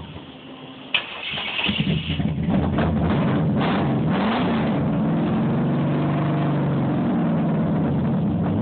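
ZZ502 big-block Chevy V8 crate engine with Powerjection III throttle-body fuel injection being started. There is a click about a second in, brief cranking, and the engine catches. Its revs rise and fall for a few seconds, then it settles into a steady idle.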